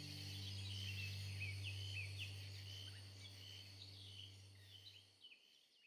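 Small birds chirping, many short high calls sliding in pitch, over a steady low hum; it all fades out near the end.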